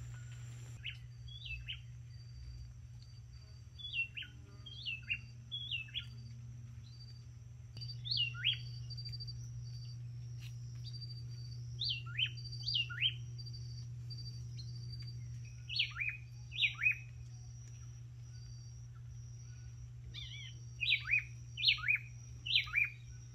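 Wild birds calling in the forest canopy: short, sharp notes that slide downward, in groups of two to four every few seconds. Underneath runs a faint, steady, high insect trill.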